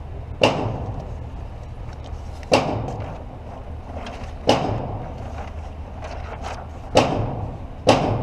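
Five gunshots, irregularly spaced about two seconds apart with the last two close together, each a sharp crack with a short echoing tail, over a steady low hum.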